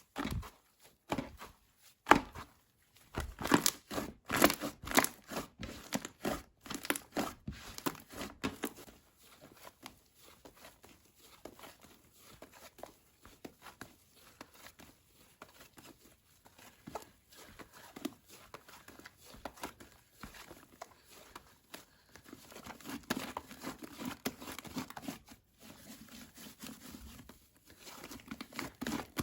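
Slime being squeezed and pressed by hand, giving runs of small clicks and crackles. These are loud and close together for the first several seconds, then turn quieter, growing a little louder again near the end.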